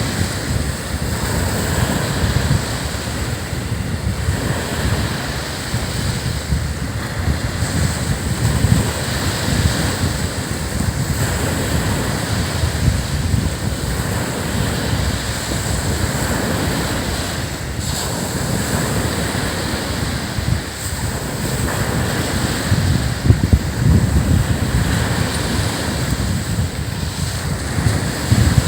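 Ocean surf breaking and washing up a sandy beach in continuous rolling surges, with wind buffeting the microphone as a low rumble.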